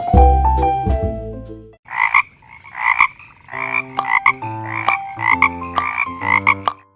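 A frog croaking repeatedly, short calls about twice a second, starting about two seconds in, over background music with plucked bass and pitched notes.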